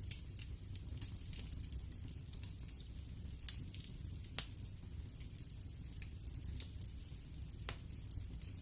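Wood fire burning in a fireplace: a steady low rumble with frequent sharp crackles and pops, two louder pops about three and a half and four and a half seconds in.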